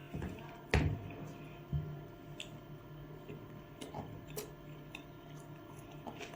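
Mukbang eating sounds: a person eating a meal of dal, rice and roti, with a few sharp clicks and soft squishy handling and chewing noises scattered over a steady low hum.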